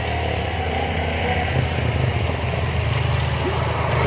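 Motorcycle engine running steadily, with its sound growing slightly louder.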